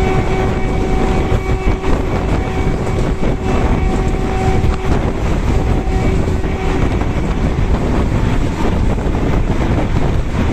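Passenger train running along the track, heard from alongside the coach: a steady rumble and rush of wheels on rails, with wind buffeting the microphone. A faint steady hum sits on top and drops away around the middle.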